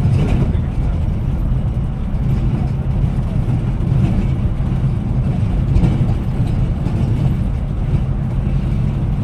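Steady low rumble of a road vehicle on the move: engine and road noise heard from on board.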